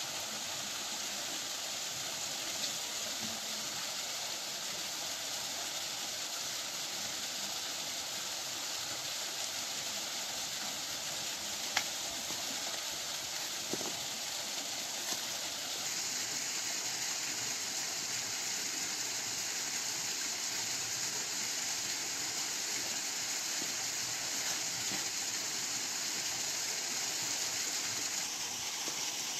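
Waterfall water rushing over rocks: a steady, even hiss. A short click about twelve seconds in, and a fainter one about two seconds later.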